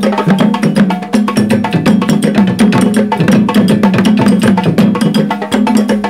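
Timbal drum ensemble playing a fast, dense rhythm of hand-struck drums, with sharp slap strokes over a repeating low drum pattern.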